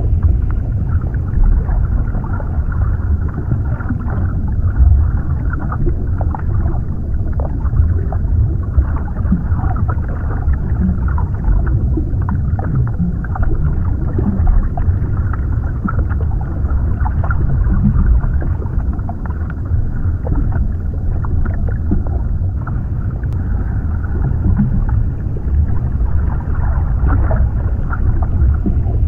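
Underwater ambience: a steady, deep muffled rumble of water with small crackles and pops scattered through it.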